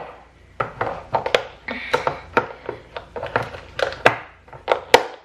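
Crinkling plastic packaging and light clicks and taps of a plastic container being handled while slices of salmon are peeled apart.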